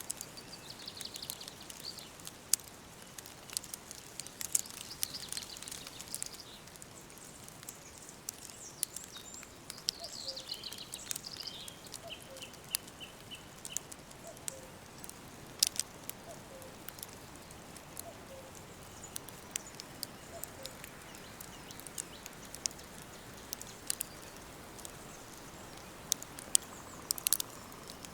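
Songbirds singing a few phrases over a faint steady hiss and frequent sharp crackles from a wood fire. About ten seconds in, one bird gives a falling trill that ends in a run of short, even, repeated notes.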